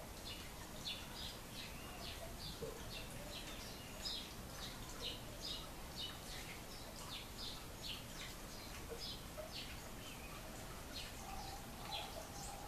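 Birds chirping: a running series of short, high chirps over a steady background hiss.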